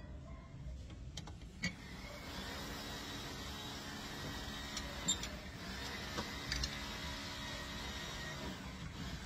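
A steady mechanical hum with an even drone, starting about two seconds in, with a few sharp metallic clicks on top.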